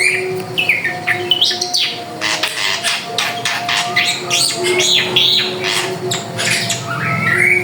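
Drongo (srigunting) singing continuously: a rapid, varied string of sharp chirps, whistled glides and harsh notes with hardly a pause. A faint steady low tone runs underneath.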